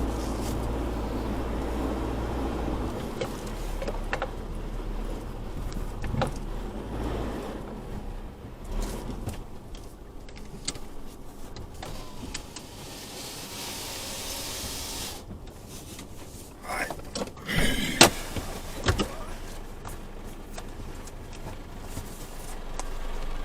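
Pickup truck in four-wheel-drive low range, heard from inside the cab as it crawls down an off-road slope. A low engine rumble fades after about three seconds, with scattered knocks and clunks from the body and suspension throughout. About halfway through there are a few seconds of hiss, and then a cluster of louder thumps.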